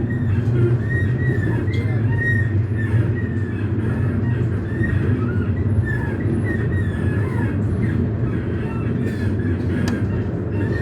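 Astra Imperio Metropolitan tram running: a steady low rumble with many short, high squeaks scattered throughout.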